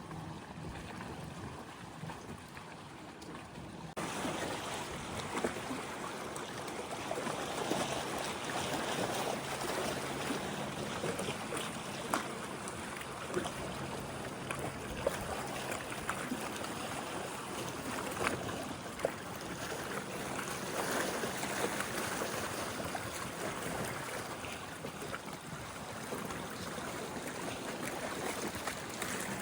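Small lake waves lapping and washing at the shore, with a few sharp ticks; the sound gets louder about four seconds in.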